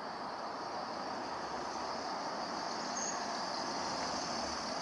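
Electric multiple-unit commuter train approaching along the line, a steady rolling rumble slowly growing louder, with a steady high hiss over it.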